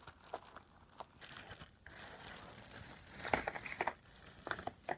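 Tape being pulled off and paper packaging crinkling as a small taped-up packet holding a TRU-VUE film reel is opened, with irregular rustles and sharp crackles, loudest a little past halfway.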